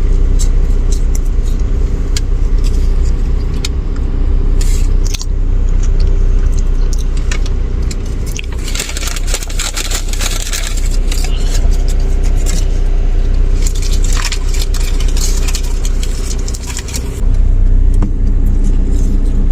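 Steady hum of a running car inside its cabin, with paper food wrappers crinkling and rustling and small clicks and knocks as burgers are unwrapped; the rustling is densest about halfway through.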